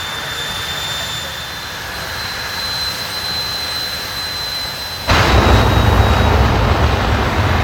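Drag racing car engine running with a steady loud noise and a thin high whine, then about five seconds in a sudden, much louder full-throttle blast that lasts nearly three seconds.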